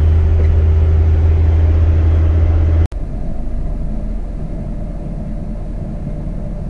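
Small-block Chevy 350 V8 of a 1999 Isuzu NPR cabover truck running while the truck is driven, a steady low drone. About three seconds in it breaks off abruptly and comes back quieter, as a rougher rumble.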